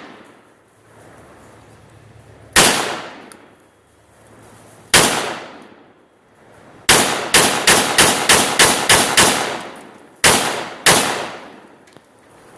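Gunshots from a firearm on a range, each with a ringing echo: two single shots a couple of seconds apart, then a rapid string of about nine shots, then two more.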